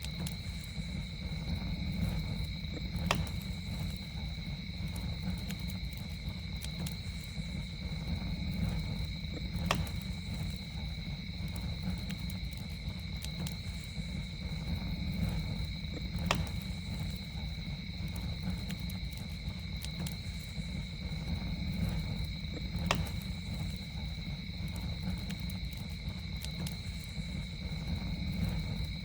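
Campfire burning with a steady low rumble and scattered small crackles, and a sharp pop about every six and a half seconds. A steady, high-pitched insect drone runs under it without a break.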